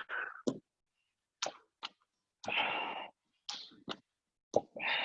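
A person's hard exhalations while exercising: about six short, forceful puffs of breath with silent gaps between them, the effortful breathing of a plyometric plank-hop set.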